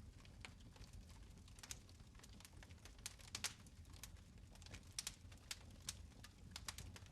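Fire in a fireplace crackling faintly: irregular sharp snaps and pops, about two a second, over a low steady rumble.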